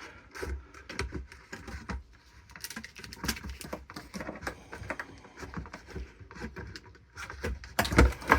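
Irregular small clicks and knocks of hands working at the plastic air intake parts while removing the mass airflow sensor, with a louder clatter near the end.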